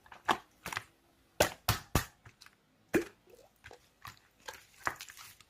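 Slime being squeezed and poked by hand, making a string of irregular wet clicks and pops.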